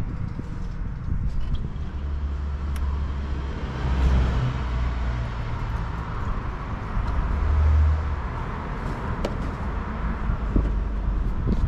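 Land Rover Discovery 1's 300Tdi turbodiesel four-cylinder running as the vehicle drives, a steady low engine drone that swells louder twice, about four and eight seconds in.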